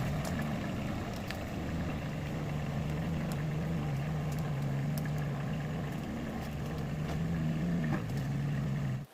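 An engine running steadily at an even low pitch, with scattered light clicks over it; it cuts off suddenly at the end.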